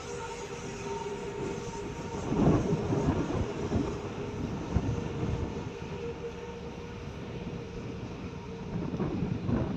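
A ship's engine drones steadily with a constant hum, while wind rumbles on the microphone in gusts, strongest about two and a half seconds in and again near the end.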